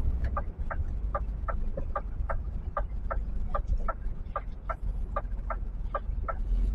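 Lorry's turn-signal indicator ticking steadily in the cab, about two and a half ticks a second, over the truck's engine running.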